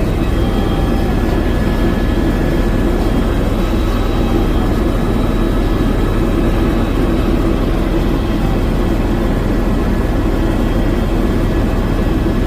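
Helicopter cabin noise in flight: rotor and turbine engine running steadily, a constant loud drone with a low hum and a few steady whining tones.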